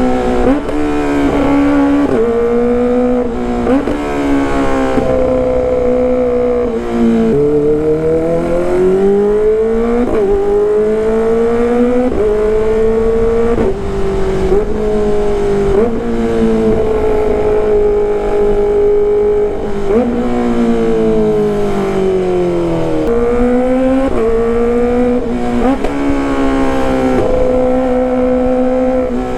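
Kawasaki ZX-25R's 250 cc inline-four with a loud 'gacor' exhaust, ridden through the gears: the high-pitched engine note climbs and drops back in steps at each shift. It holds steady high revs for a few seconds at a time and falls away more slowly twice as the bike slows.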